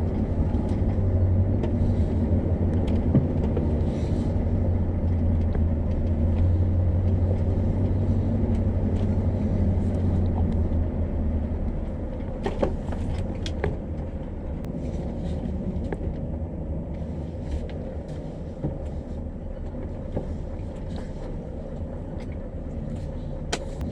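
Heavy diesel engine running with a steady low drone that drops in level about halfway through, with scattered knocks and rattles.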